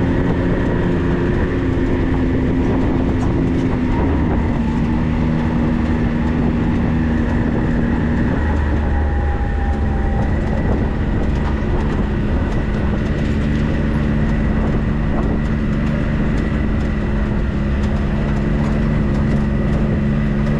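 A 4x4's engine running steadily under way, with rumbling road and drivetrain noise; the engine note drops slightly about eight seconds in.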